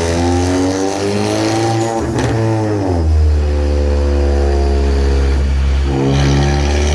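Ford Mustang V8 running on a chassis dyno. Its pitch dips and rises about two seconds in, holds steady for a few seconds, then changes again near the end.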